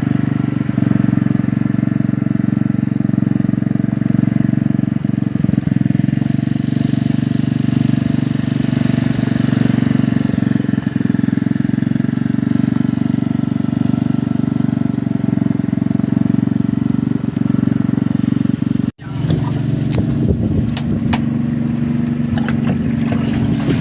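Fishing boat's engine running steadily at a constant speed. The sound cuts out for an instant about nineteen seconds in, then carries on with a few light knocks over it.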